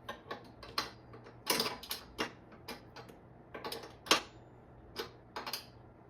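Wrench working the hub motor's axle nut as it is snugged down: a dozen or so sharp metallic clicks and clinks at uneven spacing.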